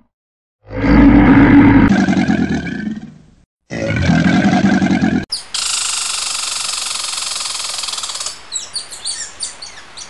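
Black bear growling: two long, loud, rough growls. It cuts to a red squirrel's high-pitched call, held steady for about three seconds and then breaking into a run of short, sharp chirps near the end.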